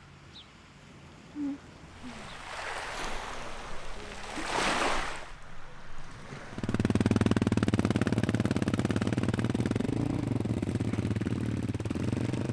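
A wave washing in and drawing back, then about halfway an engine running steadily with a fast, even low pulse.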